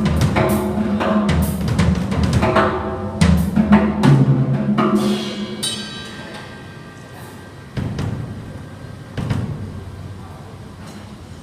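Drum kit being played: a run of tom, bass drum and cymbal hits for about five seconds, then the cymbals ring out, with two single hits later on.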